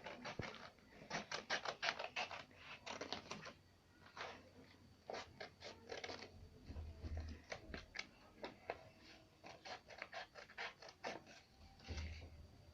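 Scissors snipping through paper in quick, irregular runs of short cuts, with paper rustling. There are two dull low bumps from handling.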